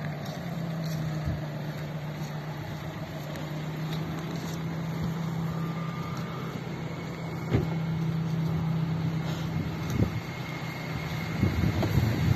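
Suzuki Vitara engine idling steadily with an even hum, with a couple of light knocks in the middle; a louder, rougher noise builds near the end.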